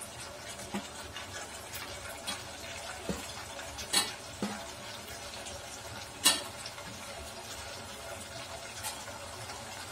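Tomatoes, onions and dried red chillies sizzling gently in a stainless steel pot, with a few sharp knocks as pieces of coconut are tipped in from a steel plate, the loudest about six seconds in.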